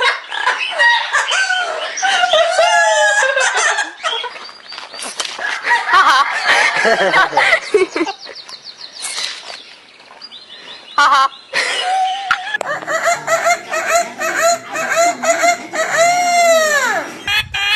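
Birds calling: chicken-like clucking and crowing. The sound changes abruptly several times, and near the end there is a call that falls in pitch.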